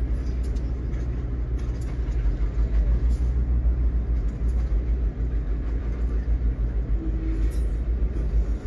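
A slow-moving train passing, giving a steady low rumble with faint clicks every second or so.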